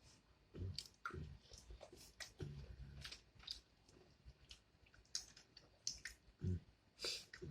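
Close-miked eating sounds: a person chewing, with a rapid scatter of short wet mouth clicks and a few soft low thumps.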